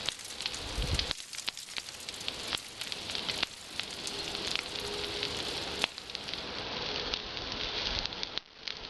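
Bonfire of actinidia (kiwi vine) prunings burning, crackling steadily with frequent sharp pops and snaps.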